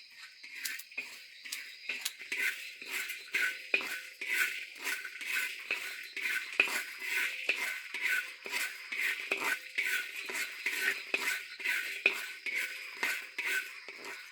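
Frogs calling in a chorus after rain, short repeated calls several a second, with faint steady insect trilling underneath.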